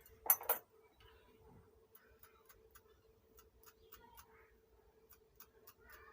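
A short clatter about half a second in, then faint, evenly spaced ticking about three times a second over a steady faint hum.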